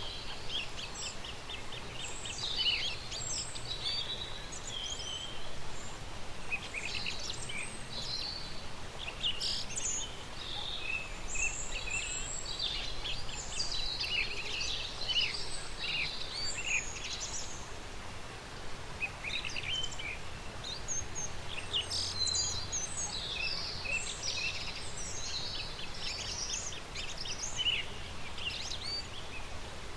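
Several birds chirping and singing, a dense run of short chirps and trills that goes on without a break, over a steady soft background hiss.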